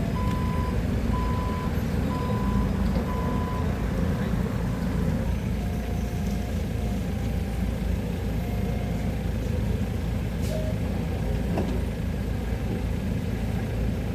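A heavy machine's diesel engine running steadily while its reversing alarm beeps about once a second. The beeping stops about three and a half seconds in. A few fainter, lower-pitched beeps follow later.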